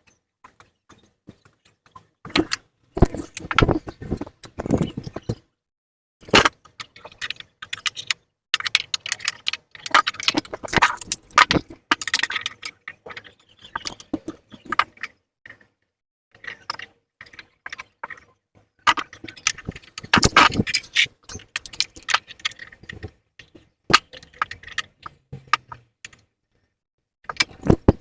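Metal hand tools and parts clinking and rattling in bursts of clatter with short pauses, as bolts and spacers are handled during work on a motorcycle.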